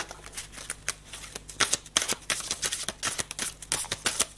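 A deck of cards being shuffled by hand: a quick, irregular run of soft papery clicks and flicks.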